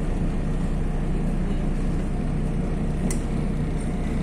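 Steady drone of a MAZ-103.060 city bus's diesel engine and road noise heard from inside the moving bus, with one short click about three seconds in.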